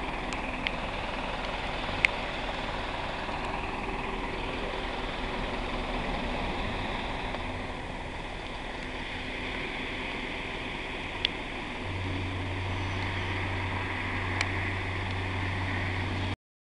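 A vehicle engine running steadily, with a few sharp clicks or knocks. A steady low hum comes in about twelve seconds in, and everything cuts off abruptly just before the end.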